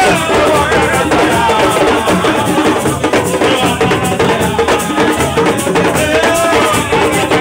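Music with steady drumming and shaken rattle percussion in an even rhythm.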